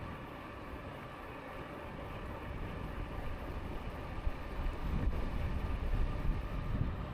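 Wind rushing over the microphone of a moving e-bike, a steady low rumble that grows heavier in gusts from about the middle to near the end.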